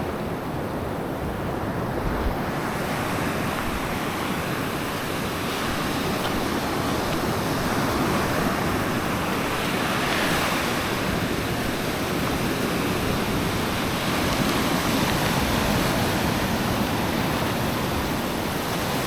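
Black Sea surf washing onto the beach in a steady rush, swelling as waves break, with one louder surge about ten seconds in. Wind is buffeting the microphone.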